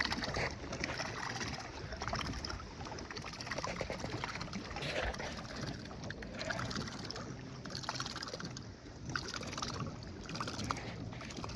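Kayak moving through the water under an electric trolling motor: an uneven wash of water against the hull. The motor's propeller runs submerged and is not heard clearly.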